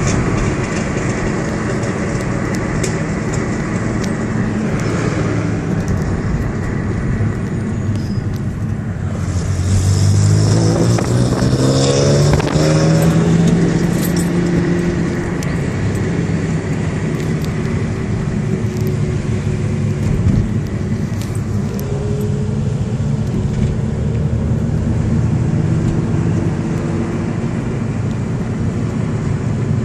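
Ferrari 308 GTB's V8 engine running through its exhaust, the pitch rising sharply about ten seconds in as the revs climb, holding there a few seconds, then settling back to a steady drone.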